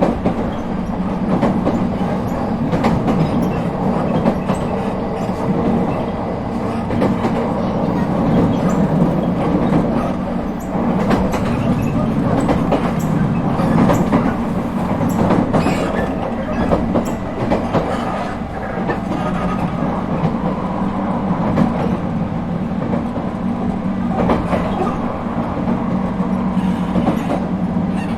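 Running sound inside an Echigo TOKImeki Railway ET127 series electric multiple unit, re-equipped with Toyo IGBT-VVVF traction gear, travelling at a steady pace: continuous wheel-on-rail rumble with scattered clicks from the wheels over rail joints.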